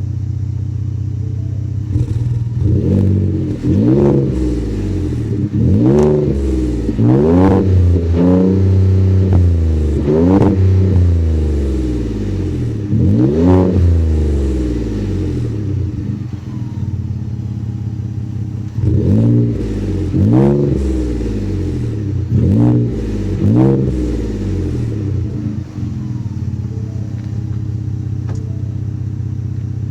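2019 Ford F-150's 3.5 L EcoBoost twin-turbo V6 idling through an MBRP 4-inch single-outlet aftermarket exhaust with a large muffler, revved in short throttle blips. The blips come in two bunches, each rise and fall settling back to idle, with a steady idle between the bunches and near the end. The exhaust note is deep.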